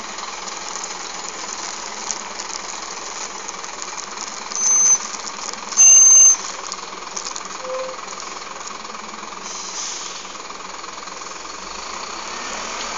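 Diesel engine of a Scania K270 bus running with a steady rattling drone. Two short, loud, high whistle tones cut through it, about four and a half and six seconds in.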